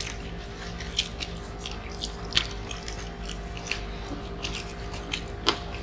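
Close-up eating sounds of people chewing grilled chicken and rice eaten by hand: scattered wet mouth clicks and smacks, a few sharper ones standing out, over a steady low hum.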